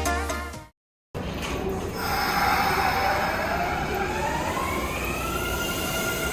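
Background music fades out at the start and cuts to an electric train running. From about two seconds in, the train's motor whine rises in pitch and then levels off, the sound of the train accelerating.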